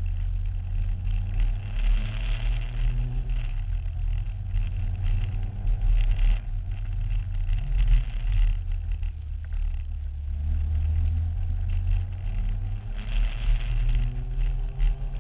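Engine of a Promotive R1 mini car running, its pitch rising and falling several times with the throttle over a strong low rumble. The owner believes this engine has a problem but has not identified it.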